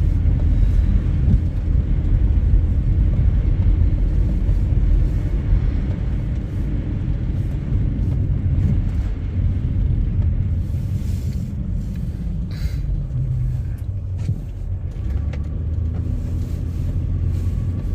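Steady low rumble of a car driving, heard from inside, easing slightly partway through, with a few light clicks near the end.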